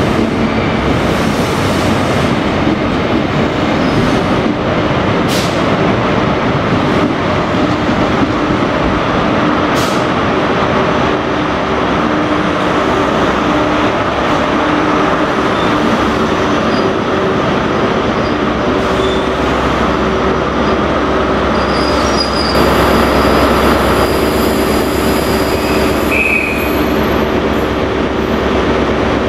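A train running past on the rails: a steady, loud rumble of wheels on track.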